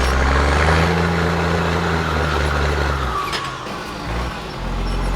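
Heavy off-road trial truck's engine running hard under load for about three seconds, with a high whine falling in pitch, then easing off; the engine picks up again near the end.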